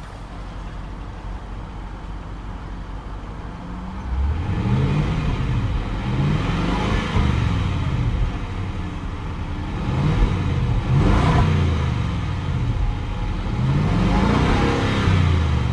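Range Rover Sport SVR's 5.0-litre supercharged V8 exhaust idling steadily, then blipped and revved up and back down about four times from roughly four seconds in, with the standard (non-sport) exhaust setting.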